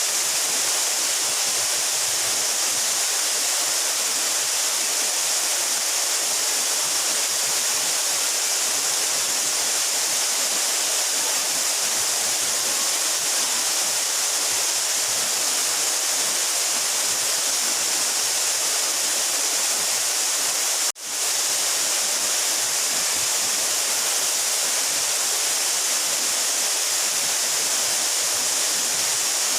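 A 12-metre mountain waterfall: a steady, dense rush of falling water with a bright, hissy top. The sound cuts out for a split second about two-thirds of the way through, then returns at once.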